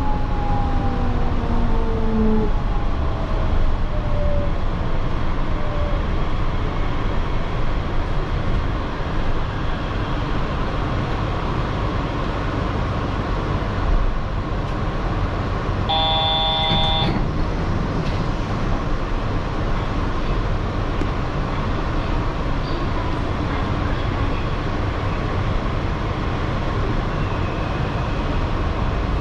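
Yurikamome rubber-tyred automated guideway train coming to a stop at a station: the drive's whine falls in pitch over the first two seconds as it brakes. It then stands with a steady low rumble and hum. About halfway through, a short electronic chime sounds for about a second.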